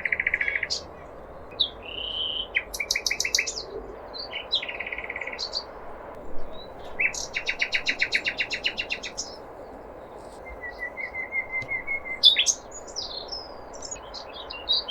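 Common nightingale singing: a string of varied phrases of fast repeated notes, rattling trills and short whistles, each separated by a brief pause, over a steady background noise.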